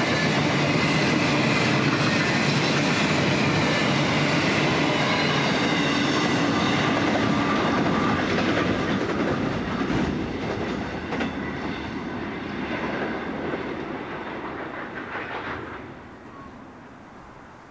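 Loaded standard gauge grain hopper wagons rolling past on the rails with a clickety-clack, loud and steady for about eight seconds. The sound then fades as the end of the train goes by, with a few sharp clacks around ten and eleven seconds. Near the end it dies away to faint wind.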